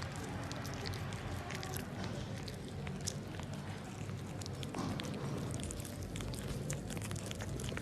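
A dog chewing, with irregular small crunches and clicks over a low steady hum.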